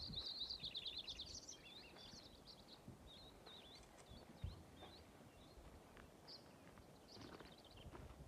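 Faint birdsong: a fast, high trill during the first second and a half, then scattered short chirps. A soft low thump about four and a half seconds in.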